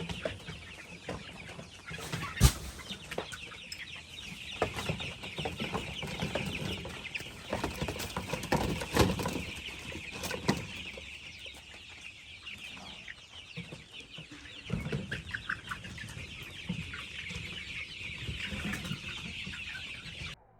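A large flock of chickens in a poultry shed clucking and chattering continuously, many birds calling at once. A few sharp knocks cut through, the loudest about two and a half seconds in.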